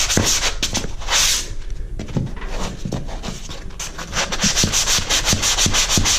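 Hand sanding dried joint compound in a drywall corner with a 3M angled corner sander, scrubbing back and forth at about three to four strokes a second to take off ridges left by the corner knife. The strokes soften for a couple of seconds in the middle, then pick up again.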